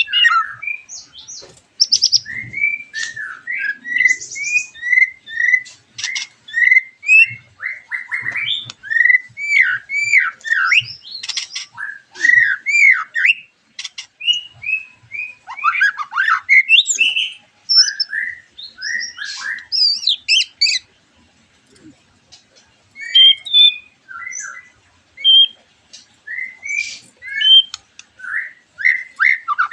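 Several white-rumped shamas singing in full song: a fast, varied stream of whistled and slurred notes mixed with sharp, harsh chatters. There is a short pause about two-thirds of the way through.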